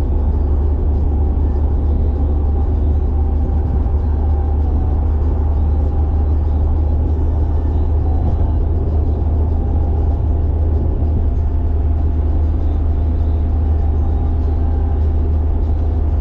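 Carburetted Nissan Silvia cruising on an expressway, heard from inside the cabin: a steady low engine drone mixed with road noise, holding an even pitch and level throughout.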